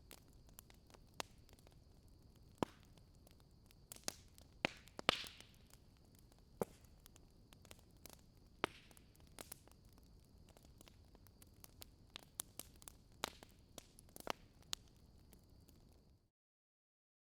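Wood fire crackling, with irregular sharp pops and snaps over a faint hiss and a thin steady high tone. It cuts out to dead silence near the end.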